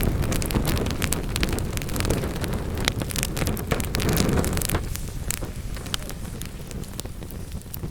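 Wood fire burning in a fireplace: a dense stream of crackles and sharp pops over a low rumble of the flames. The rumble eases off after about five seconds while the crackling goes on.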